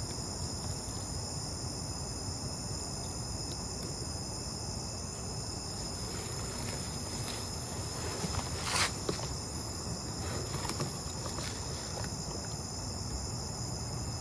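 A train passing at a distance, a steady low rumble that swells a little through the middle. Crickets keep up a steady high chirring over it.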